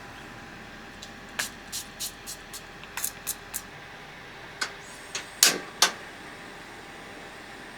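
A run of about a dozen light, irregular clicks and knocks, like small objects being handled, the loudest two near the end.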